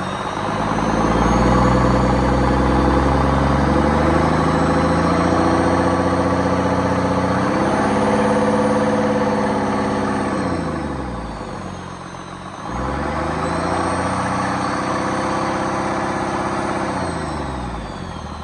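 Hino J08E-TV 7.7-litre turbocharged straight-six diesel engine running and being revved. It rises about half a second in and holds high, then drops back toward idle around ten seconds in. It is revved up again about a second later and eases down near the end.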